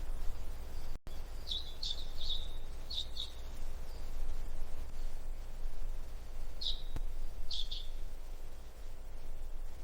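A bird chirping: short, high chirps in two clusters, about four in quick succession in the first few seconds and three more near the end, over a steady low background rumble.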